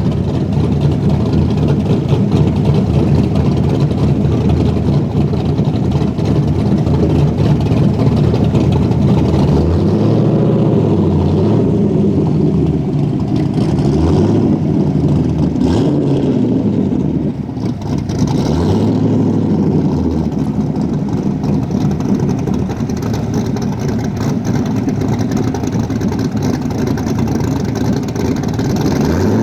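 Corvette engine running, revved about five times in the middle, each rev rising and falling in pitch, then settling back to a steady run.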